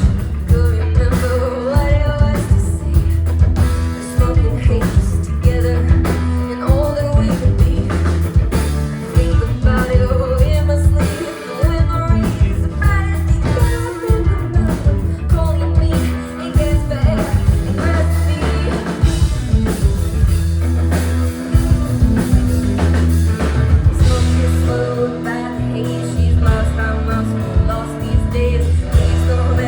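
Live rock band playing: electric guitar, bass and drum kit over a steady beat, with a melodic line that bends in pitch.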